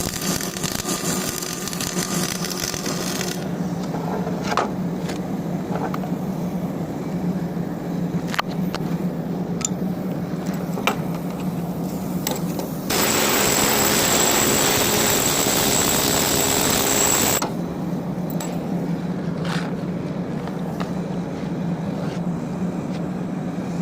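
Electric arc welding: the arc hisses and crackles, cuts off a few seconds in, and is struck again about halfway through, running loud and even for about four seconds before stopping abruptly. A steady engine hum runs underneath, with scattered sharp clicks in the gaps.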